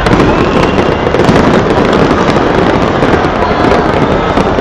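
A large fireworks display going off in a dense, unbroken barrage of bangs and crackling.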